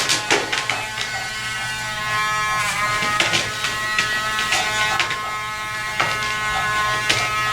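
Electric dog grooming clippers running with a steady buzz, with scattered short clicks and scuffs.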